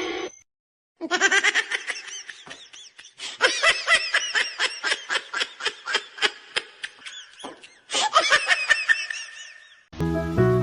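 High-pitched laughter: a long run of rapid 'ha-ha' bursts with a short break near the middle, stopping just before music with a piano comes in near the end.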